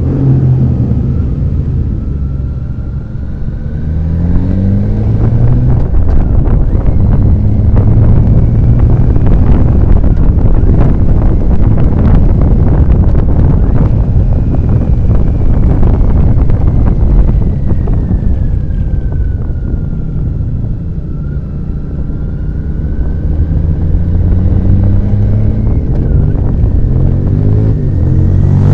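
Motorcycle engine under way, its pitch climbing and dropping in steps as it revs and shifts gears, over heavy wind rush.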